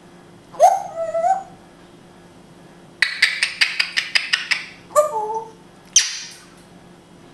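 African grey parrot vocalizing in short bursts: a brief gliding call, then a rapid run of sharp clicks about three seconds in, another short pitched call, and a harsh noisy squawk near the end.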